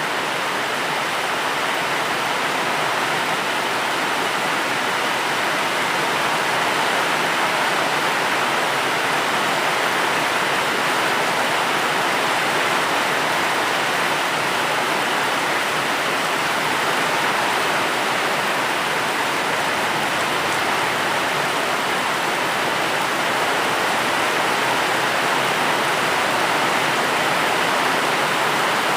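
Steady, heavy rainfall: a dense, even hiss with no single drops standing out.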